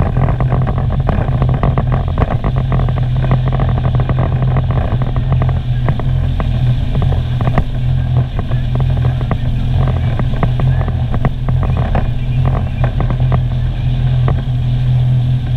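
Sea-Doo personal watercraft engine running steadily under way, a strong low drone, with rapid crackling over it.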